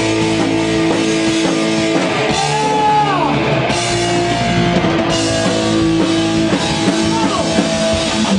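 Rock band playing live: distorted electric guitar holding long notes with several string bends, over drums and cymbals.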